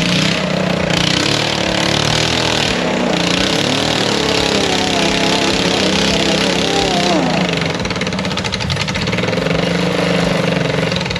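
Off-road vehicle engine running steadily and loudly.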